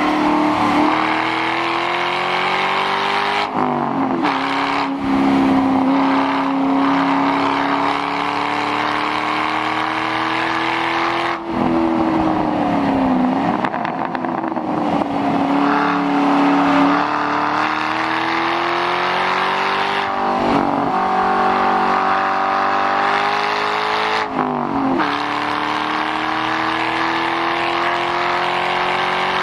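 2006 Ford Mustang GT's 4.6-litre V8 running through a muffler-delete exhaust under hard driving: the revs climb steadily and then drop sharply, four times, as the car shifts or lifts off.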